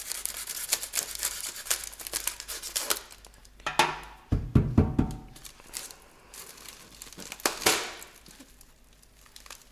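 Knife cutting through packaging and the cardboard and packing material being torn and pulled apart, with irregular rustling, crinkling and scraping. A cluster of low thumps with a brief squeak comes about four to five seconds in.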